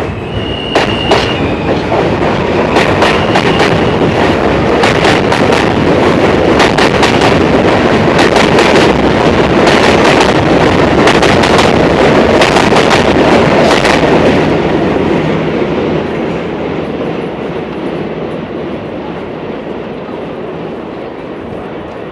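NYC Subway L train cars rolling past on the track, the wheels clicking rapidly over rail joints under a heavy rumble, with a brief high wheel squeal near the start. The rumble builds, then the clicking stops about two-thirds of the way through and the sound fades as the train moves off.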